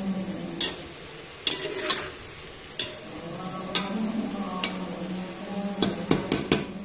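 Sliced bitter gourd frying in oil in an aluminium pressure cooker, sizzling steadily while a metal spatula stirs and clinks against the pot about once a second, with a quick run of clinks near the end. The slices are being fried to a light brown.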